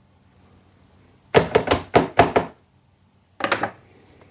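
A quick run of about six sharp knocks and clatter, then a second short cluster near the end, from the Greenworks battery chainsaw and its parts being handled and set down on a work surface.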